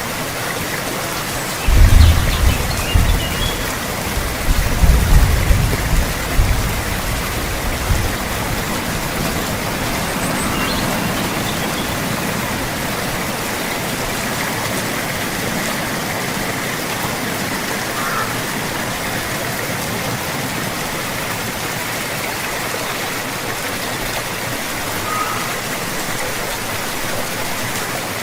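Steady heavy rain falling, an even hiss. From about two to eight seconds in, a loud uneven low rumble comes and goes over it, and a few faint high chirps sound now and then.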